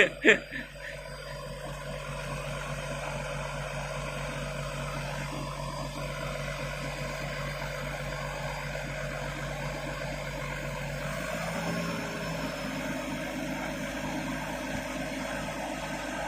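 Heavy truck's diesel engine running steadily, a low even hum whose pitch steps up slightly about eleven seconds in.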